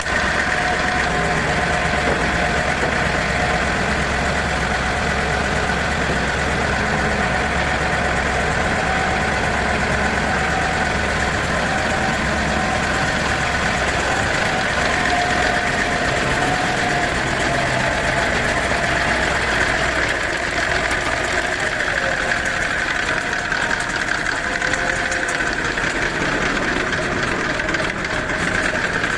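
Cummins KTA38 V12 diesel engine running steadily at an even speed.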